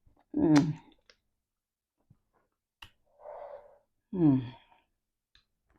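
Mouth and voice sounds of a person eating eba: two brief hummed, voice-like sounds, one about half a second in and one about four seconds in, with a softer breathy sound between them and a few faint clicks.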